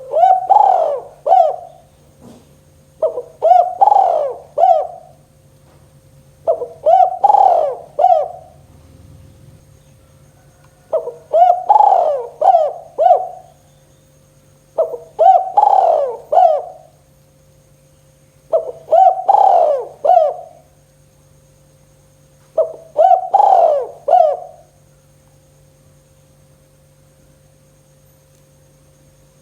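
Spotted dove (tekukur) cooing its 'kuk 2' song: seven similar phrases, each a short opening note followed by a run of coos, repeated about every four seconds and stopping near the end. A faint steady hum runs underneath.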